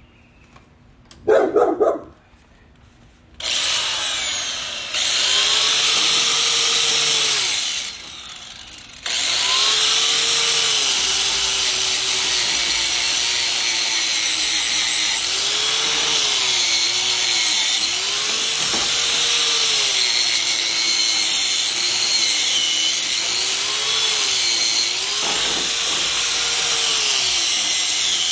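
A dog barks briefly about a second in. Then an angle grinder fitted with a wire cup brush runs against welded steel rebar, scouring the welds clean. Its motor pitch sags and recovers again and again as it is pressed onto the metal, with a short let-up about eight seconds in.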